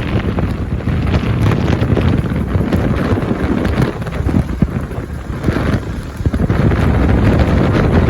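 Wind buffeting the microphone, loud and rumbling, easing a little around the middle before picking up again.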